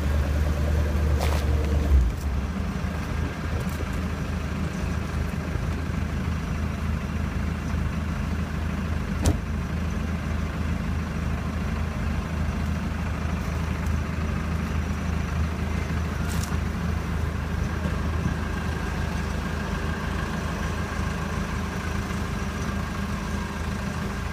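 Shelby GT500's supercharged 5.4-litre V8 idling steadily, its low hum easing about two seconds in, with a couple of sharp clicks.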